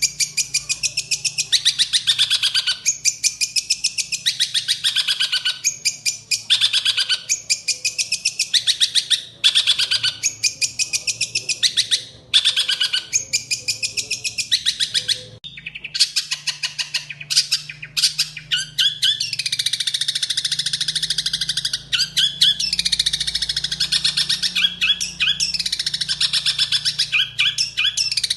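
Songbird singing loud, rapid chattering phrases of fast repeated high notes. For the first half it comes in bursts of a second or two with short pauses; from about halfway it becomes a near-continuous run with quick pitch sweeps.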